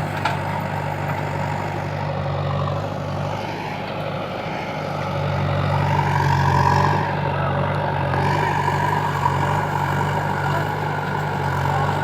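Heavy diesel earthmoving machinery running steadily, its engine note dipping briefly and then growing louder and brighter around the middle.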